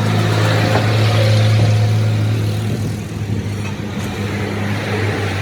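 A motor vehicle's engine running with a steady low hum, loudest about a second and a half in, then fading away.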